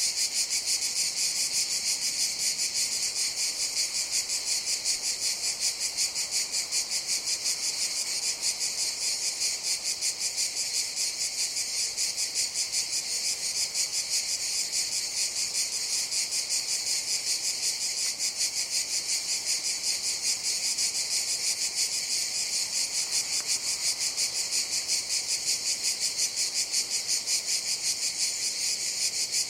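Cicadas buzzing in a steady, high-pitched chorus with a fast, even pulse.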